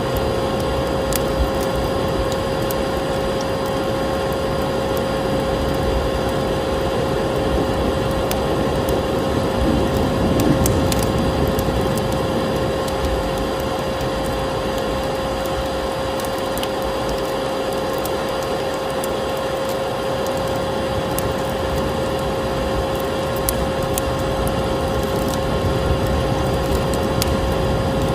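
Vacuum cleaner running with a steady whine, layered with a wood fire crackling in a fireplace, its scattered crackles heard over the motor.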